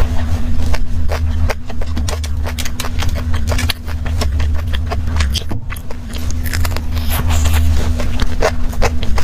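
Close-miked chewing of a crumb-coated bite: irregular crisp crunches and wet mouth clicks, many to the second, over a steady low hum.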